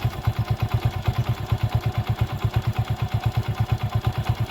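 An engine idling with a steady, even beat of about ten pulses a second.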